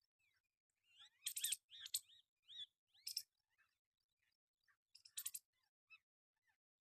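Parrot calling: a cluster of short, harsh screeches and arching chirps about a second in, then single screeches around three seconds and again around five seconds in.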